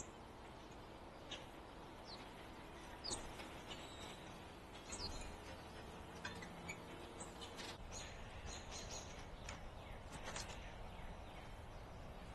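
Songbirds chirping: scattered short, high chirps, some falling in pitch, over faint steady background noise.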